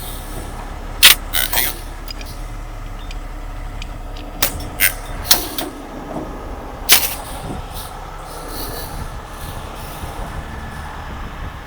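Heavy tow truck's diesel engine running steadily, with a handful of sharp metal clanks: three close together about a second in, three more between about four and five seconds in, and one at about seven seconds.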